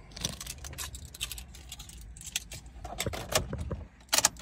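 Keys jangling, with a run of small clicks and rattles and a louder clatter near the end.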